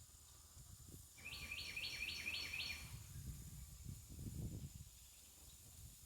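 A songbird sings one quick phrase of about six repeated two-part notes, each stepping up in pitch, lasting about a second and a half. Low rumbles of wind gusting on the microphone follow.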